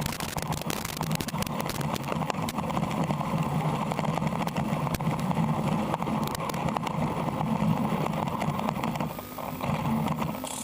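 Small RC car's brushless motor and metal drivetrain whirring under throttle, with a constant crackle of small clicks from the chassis and tyres running over rough ground. It dips briefly near the end, then cuts off suddenly.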